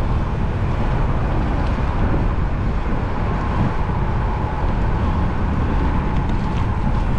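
Steady wind rushing over the microphone of a moving bicycle, with road and traffic noise beneath and a faint steady whine through the middle.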